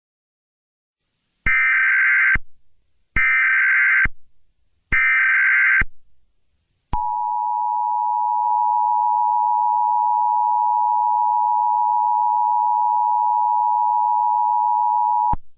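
Emergency Alert System tones: three short bursts of SAME header data, then the two-tone EAS attention signal (853 and 960 Hz together) held steady for about eight seconds before cutting off.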